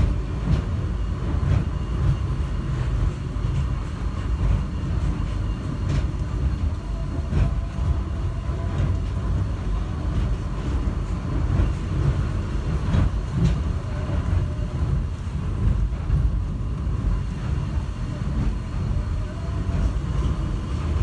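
Airport subway train running, heard from inside the car: a steady low rumble with a few faint steady tones and occasional clicks and knocks.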